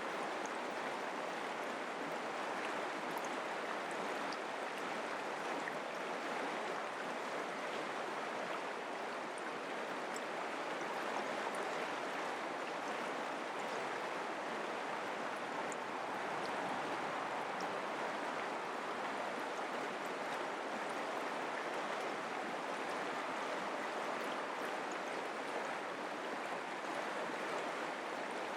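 Mountain creek water flowing and rushing over stones, a steady, even babble.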